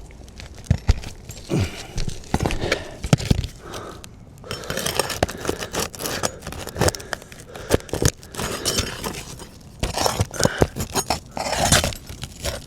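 Irregular scraping, clicks and knocks of a roofing tool working against asphalt shingles as the last roofing nail is pried out.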